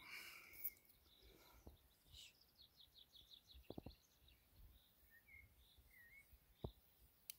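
Near silence outdoors with faint birdsong: scattered short chirps and one quick run of repeated notes, plus a few soft clicks.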